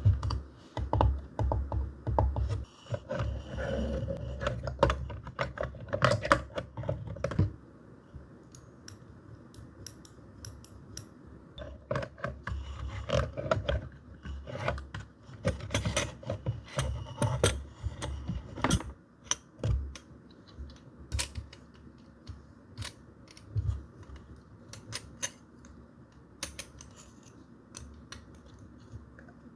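Hands handling paper and packaging during an unboxing: rustling and crinkling with many light taps and clicks, busier and louder for the first seven seconds or so, then sparser.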